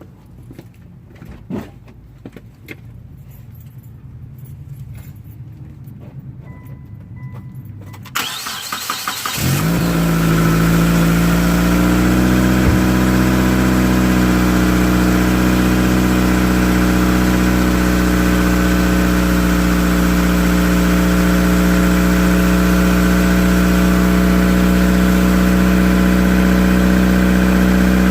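A few faint knocks, then about eight seconds in a Mitsubishi Lancer's starter cranks briefly and the engine catches, flares up and settles into a steady idle, heard from under the car. It idles without the ticking of the exhaust leak that has just been clamped.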